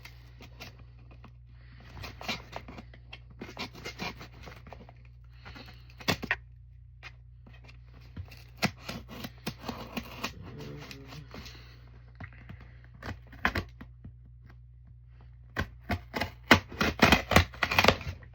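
A shipping package being handled and opened by hand: scattered clicks, scraping and tearing, with a louder, denser flurry of rustling and tearing near the end. A steady low hum runs underneath.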